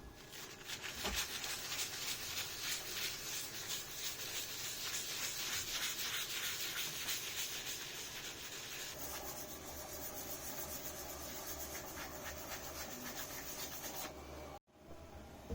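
Sanding of the subwoofer box: a steady rasping rub of many fine strokes that changes character about nine seconds in and breaks off abruptly near the end.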